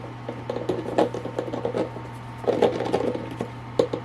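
Handling noises: irregular rubbing and rustling with light knocks and clicks and one sharp click near the end, over a steady low hum.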